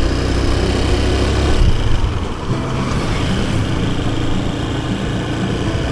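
Motorcycle engine running on the move, with road traffic noise around; the low rumble is heavier for the first second and a half, then settles a little lighter and steady.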